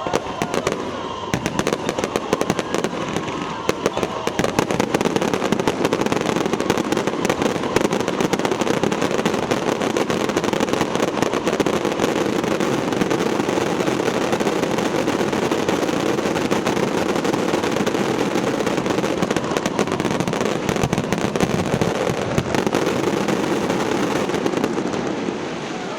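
Fireworks display: a dense, continuous barrage of crackling bursts, many small bangs a second, with a whistling glide fading out at the start.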